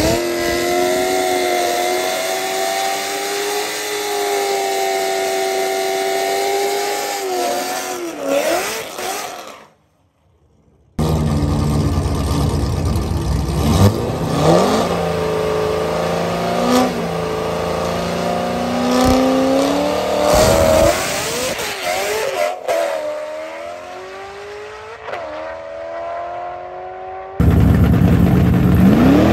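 A C5 Corvette's V8 running loud and revving at the drag-strip starting line, its pitch sweeping up several times, with a brief silent gap about ten seconds in. Near the end a pickup truck's engine takes over, running loud.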